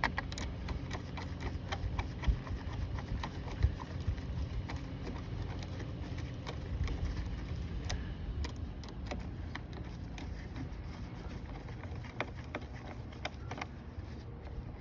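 Irregular light clicks and taps of metal tools and battery terminal hardware being handled and fitted during a car battery swap, over a steady low rumble.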